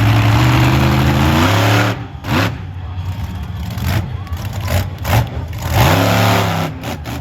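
Monster truck engine held at high revs for about two seconds, then dropping off, with a quick throttle blip that rises and falls in pitch near the end.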